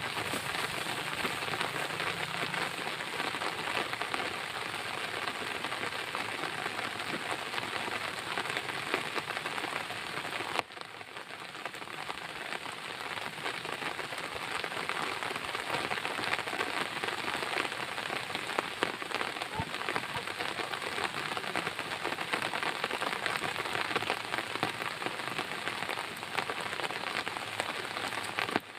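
Heavy rain falling steadily, a dense patter of drops on a surface, dropping slightly in level at a sudden cut about ten seconds in.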